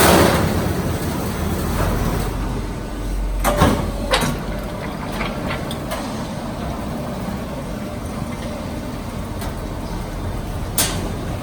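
Sheet-metal HVAC duct production line running steadily with a low hum, with a few sharp metallic clanks from its working stations about three and a half to four seconds in and another near the end.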